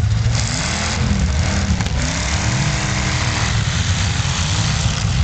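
Engines of several full-size demolition derby trucks running and revving at once, their pitch rising and falling.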